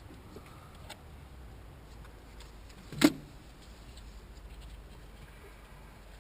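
Hand work on an engine: faint small clicks and handling noise, and one sharp metallic knock about three seconds in as a tool or part is struck or set down.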